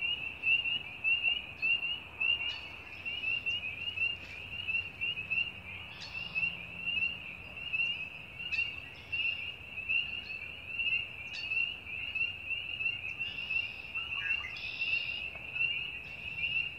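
A dense chorus of frogs calling in early spring: many short, high, rising notes overlap into one steady, continuous din.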